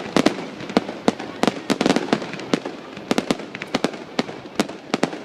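Fireworks exploding in a rapid, irregular barrage of sharp bangs and cracks, several a second, with a rumble of noise between them.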